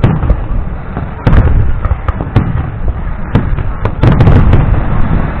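Fireworks display: a rapid string of loud bangs and crackles over a continuous low rumble, densest about a second in and again around four seconds in.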